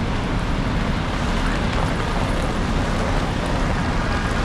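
Steady city street traffic noise on a rainy day, an even wash of passing vehicles on wet roads.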